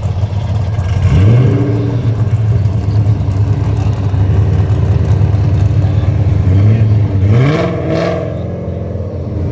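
Muscle car engine idling with a low, steady drone, revved up briefly about a second in and again, harder, near the end, as the cars get ready to do burnouts at a drag-race start.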